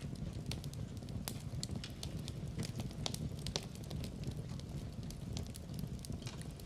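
Wood fire burning in a fireplace: a steady low rumble of flames with frequent irregular crackles and pops, a few sharper ones about a second in and around three seconds in.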